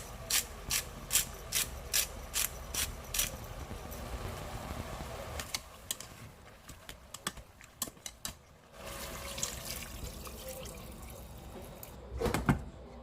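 Kitchen prep: about eight quick, evenly spaced cutting strokes in the first three seconds, then scattered light clicks of utensils and dishes, and a louder clatter near the end.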